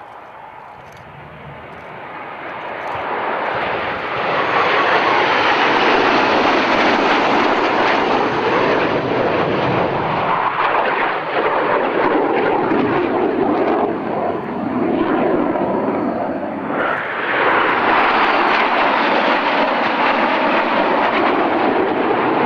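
Fixed-wing aircraft flying past, its engine noise building over the first few seconds, easing briefly about two-thirds of the way in, then swelling loud again.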